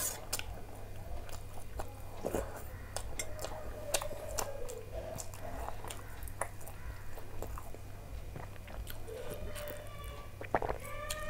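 Close-up chewing and mouth sounds of a person eating paratha with curry, with scattered small clicks. At the start a sharp click as a spoon scrapes a steel bowl.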